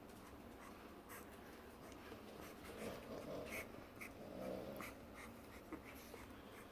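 French bulldog puppies eating mushy dog food: scattered wet smacking and licking clicks, with two short puppy vocal sounds about three and four and a half seconds in.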